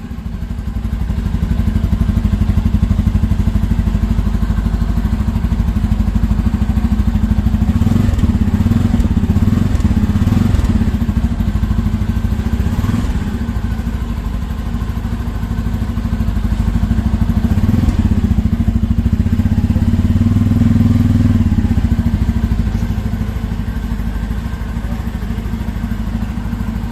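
Bajaj Pulsar F250's single-cylinder engine running through its stock exhaust at idle, with the engine speed rising slightly a few times.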